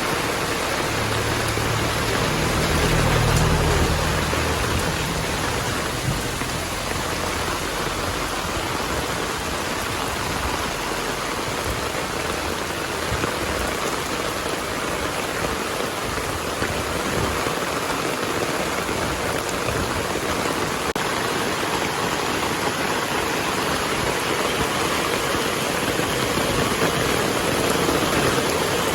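Heavy rain pouring steadily in a dense, even hiss of drops hitting surfaces. A low rumble of thunder comes in about a second in and lasts a few seconds.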